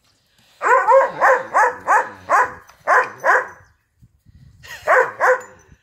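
A dog barking in a quick run of about eight short barks, then two more after a brief pause near the end.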